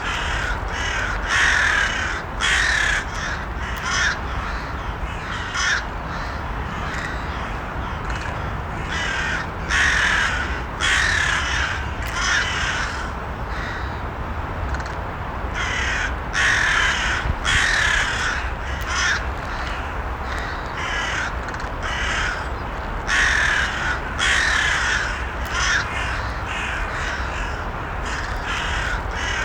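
Crows cawing: harsh calls come in clusters of several, with short pauses between the clusters, over a steady low background rumble.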